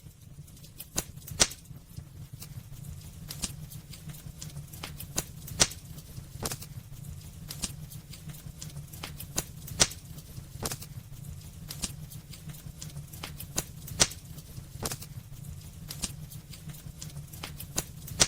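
Wood fire crackling in a fireplace: many small snaps and clicks with a louder sharp pop about every four seconds, over a steady low rumble of the burning fire.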